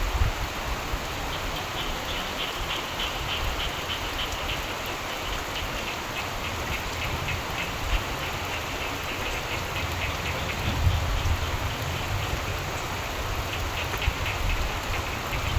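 Steady rain falling, with frogs calling in rapid pulsed trills that come in several bouts. A low rumble of thunder fades out in the first second.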